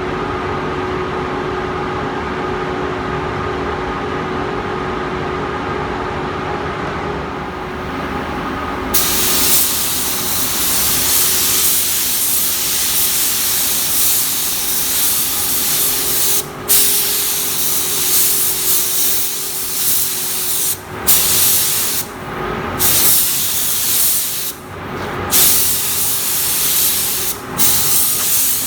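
Paint spray gun hissing as green basecoat is sprayed onto a motorcycle gas tank. It starts about nine seconds in, in passes broken by short stops several times, over a steady machine hum.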